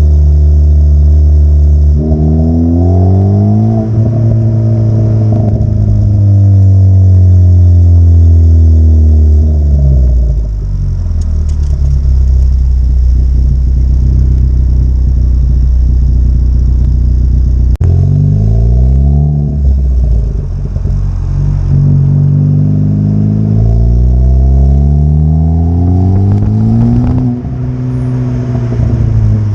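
2014 Ford Focus ST's turbocharged 2.0-litre four-cylinder heard through an MBRP cat-back exhaust, accelerating under throttle. The engine note climbs and drops back several times as the revs rise and fall.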